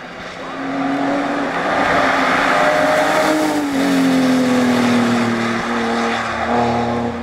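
BMW E30 rally car's engine pulling hard: its pitch climbs for about three and a half seconds, drops sharply at a gear change, then sags slowly for the rest of the run.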